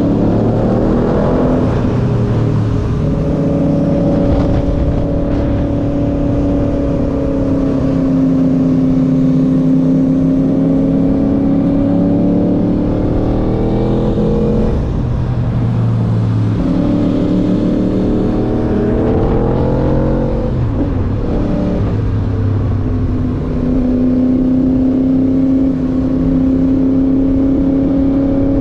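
A motorcycle engine under way at a steady cruising pitch, with wind rushing over the microphone. About halfway through and again a few seconds later the pitch drops as the throttle closes or a gear changes, then climbs back.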